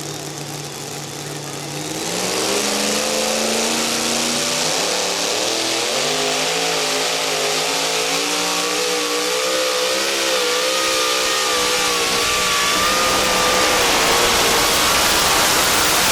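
Modified two-wheel-drive pulling truck's engine under full load down the track. It goes from a steady lower note to full throttle about two seconds in, and its pitch wavers up and down as it drags the sled. A high whine comes in during the second half.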